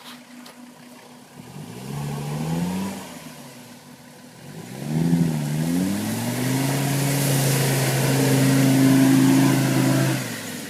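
A diesel UAZ's Mercedes OM617 3.0 five-cylinder engine revving hard as the stuck off-roader tries to drive out. It makes two short rises and falls, then holds high revs for about four seconds and drops near the end.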